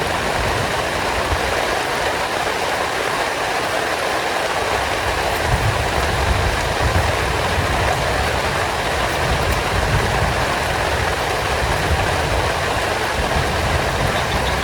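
Heavy rain falling steadily, with a low rumble that swells and fades several times underneath it.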